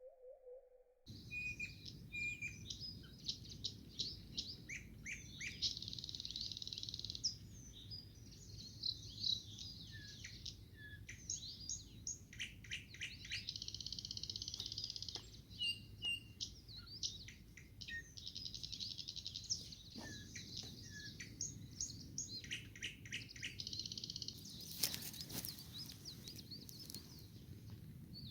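A songbird singing a long, varied song of rapid trills, sustained rattling phrases and sharp clicks, starting abruptly about a second in.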